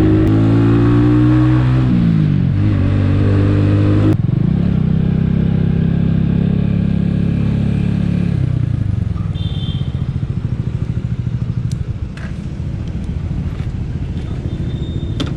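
Skygo Earl 150's single-cylinder CG150 engine, breathing through a 28mm carburetor and an open exhaust pipe, riding along: the revs dip and climb twice in the first few seconds, hold steady, then drop away about eight seconds in to a lower, uneven run as the bike slows.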